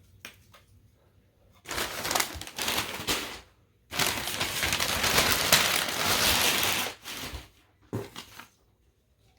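Packaging crinkling and rustling as it is handled: two short stretches, then a longer dense one of about three seconds, and a few brief rustles near the end.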